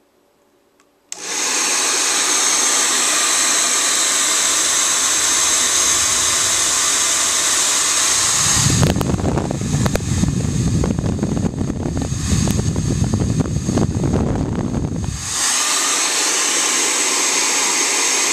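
Le Angelique Titan UV 2000-watt professional hair dryer switched on about a second in, running with a steady rush of air and a thin high whine. From about nine to fifteen seconds the sound turns rougher, with a fluttering low rumble, then settles back to the steady rush.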